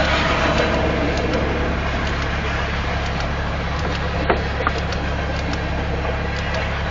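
Union Pacific grain train passing at about 35 mph: a steady rumble of steel wheels rolling on the rails, with a couple of sharp clicks about four seconds in.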